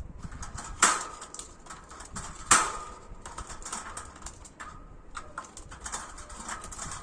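Pet bird working at its wire cage door: a run of small metallic clicks and taps, with two louder knocks about a second and two and a half seconds in that set the cage ringing briefly.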